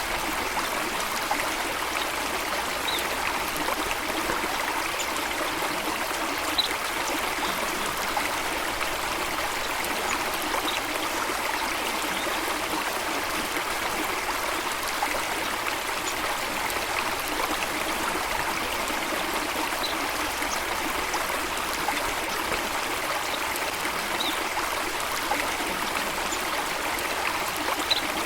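Running water flowing steadily, an even rush with a few brief, faint high ticks now and then.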